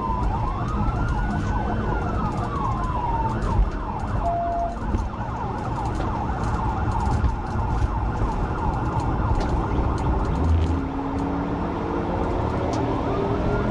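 Police car siren on a pursuing patrol car, wailing in a slow rise and fall, then switching to a fast yelp for several seconds before going back to the wail near the end. Engine and road noise rumble underneath throughout.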